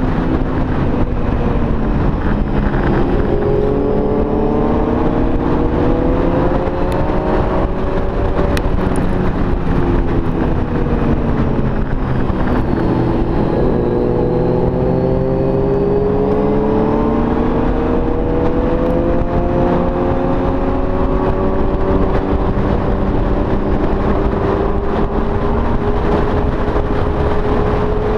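Honda Gold Wing motorcycle riding at speed, its engine note rising and falling with the throttle, dipping about halfway through and then climbing slowly. A steady low wind rumble runs underneath.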